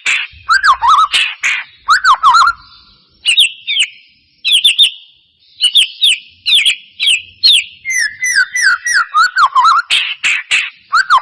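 White-rumped shama (murai batu) singing a fast, varied song of loud whistles, down-slurred notes and rapid chattering, in bursts broken by short pauses. It is played as a lure to provoke another shama into singing.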